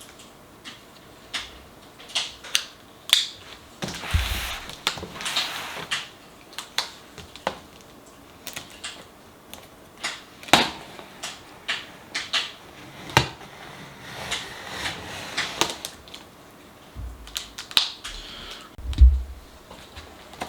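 A cardboard box being opened and handled: scattered sharp clicks and crackles, a few rustling scrapes, and dull thumps, the loudest near the end.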